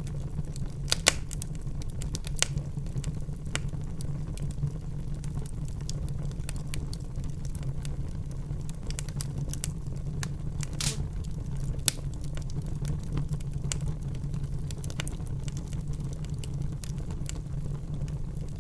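Wood fire in a fireplace crackling, with irregular snaps and a few louder pops over a steady low rumble of the flames.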